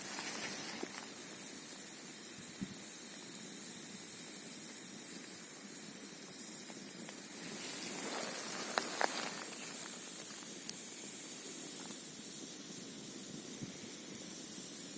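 Campfire crackling with a few sharp pops, two close together about nine seconds in and one more near eleven, over the steady hiss of a flowing mountain stream and wind.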